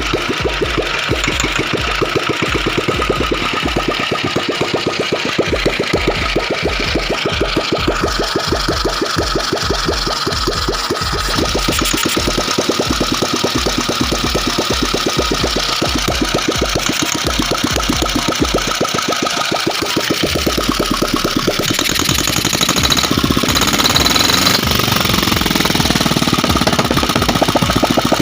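Ratna 350cc single-cylinder diesel engine, converted to run on Pertalite petrol through a carburettor and spark ignition, running at low speed with a slow, regular thumping firing beat. About two-thirds of the way through, it picks up speed into a faster, continuous beat.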